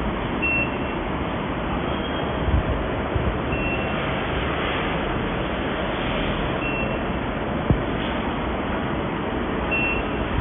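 Steady machine noise with a short high beep every few seconds and a single sharp click near the end.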